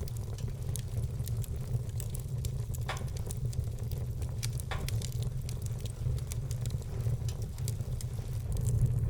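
Wood fire burning in a fireplace, crackling with many small, quick pops over a steady low rumble. Two louder pops come about three and five seconds in.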